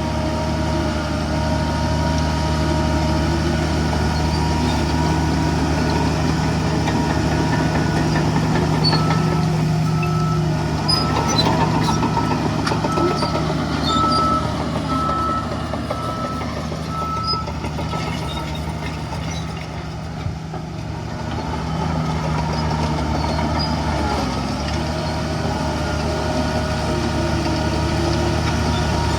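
Heavy diesel engines of a bulldozer and dump trucks running steadily, with a reversing alarm beeping about once a second for several seconds in the middle.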